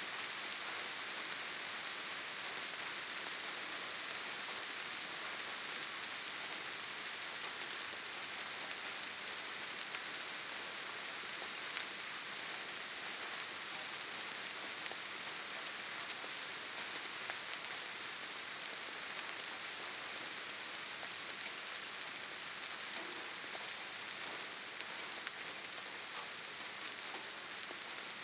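Steady rainfall: a continuous, even hiss of rain with faint scattered drop ticks.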